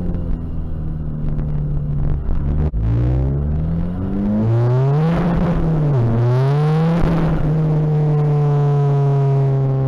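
Tuned turbodiesel engine of a Seat Ibiza TDI under hard acceleration, heard from inside the car. Steady at first, then the revs climb steeply about three seconds in, break and climb again, dip briefly and rise once more, then hold steady near the end.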